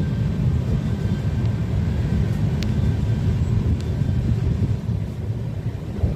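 Train running, a steady low rumble with a few faint clicks.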